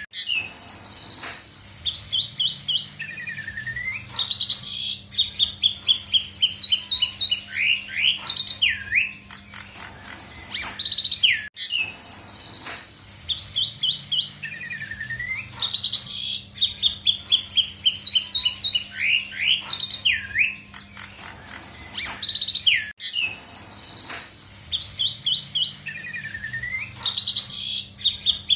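Pied starling (jalak suren) singing a loud, varied song of whistles, swooping notes and fast chattering runs filled with mimicked phrases. The same song sequence repeats about every eleven seconds, over a faint steady hum.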